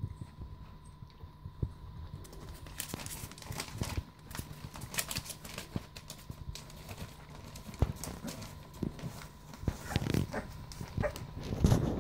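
Puppies scrabbling about, making many irregular clicks and taps that get busier in the second half, over a faint steady hum.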